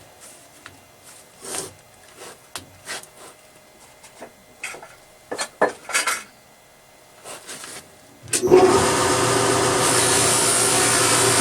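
A few scattered clicks and knocks of handling, then about eight seconds in a scroll saw is switched on and runs steadily and loudly.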